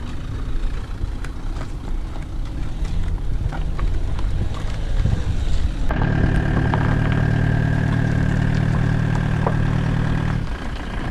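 Rumbling and scattered clatter, then a steady motor hum with a high whine above it. The hum switches on abruptly about six seconds in and cuts off after about four and a half seconds.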